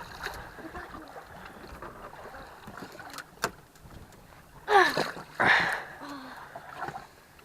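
Wind and water noise around a small open fishing boat, with a single click about three and a half seconds in. About five seconds in comes a loud, short cry that falls in pitch, the loudest sound here.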